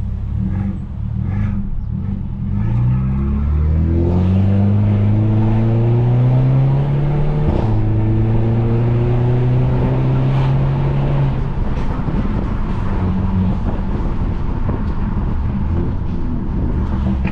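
Turbocharged, straight-piped Mercedes-Benz C250 accelerating hard: the engine note climbs through a gear, breaks briefly for an upshift about seven seconds in, climbs again, then settles into a steady cruise.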